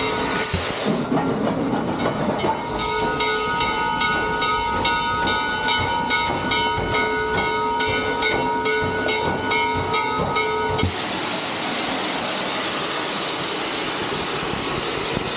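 Steam locomotive bell ringing about twice a second over the hiss of steam, stopping abruptly about eleven seconds in and leaving a steady hiss.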